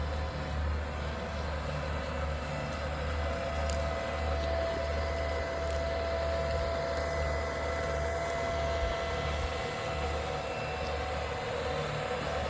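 SwarmFarm robotic weed-spraying tractor running steadily: an engine rumble that throbs a little, with a steady whine over it.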